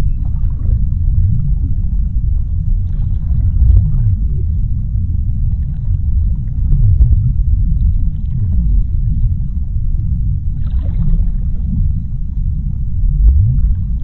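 Underwater ocean ambience: a deep, steady rumble with slow low swoops in pitch and a few faint crackling spells.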